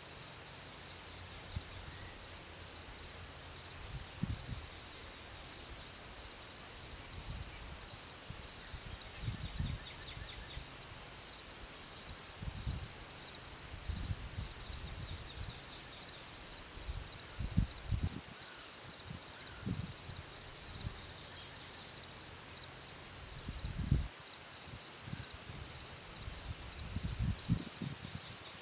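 Garden insects, such as crickets or cicadas, keep up a steady, high, pulsing chorus. Under it, irregular low gusts of wind buffet the microphone.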